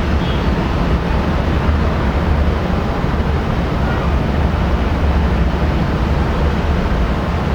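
Aircraft engine noise: a loud, steady rumble with no breaks.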